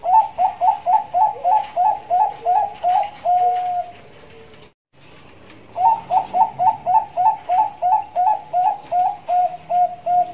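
Bangkok-line zebra dove (perkutut) singing two song phrases, each a quick run of about ten short rising coo notes followed by a longer held note. The second phrase ends in several drawn-out notes.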